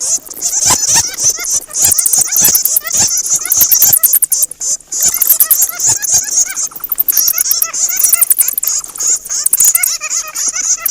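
Bats squeaking and chattering, many calls overlapping in a continuous stream of short high squeaks and rapid clicks.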